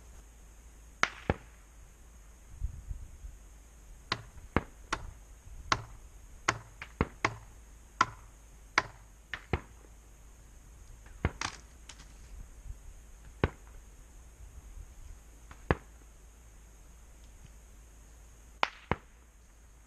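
Dead pine firewood being broken up: about twenty sharp wooden cracks at irregular intervals, some in quick pairs, fewer in the last few seconds.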